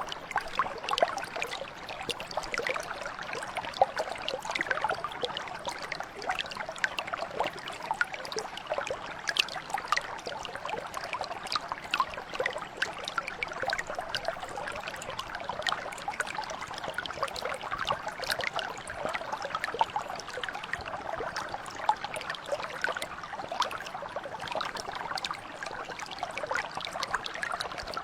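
A mountain brook flowing steadily over rocks, with a dense patter of small splashes and trickles.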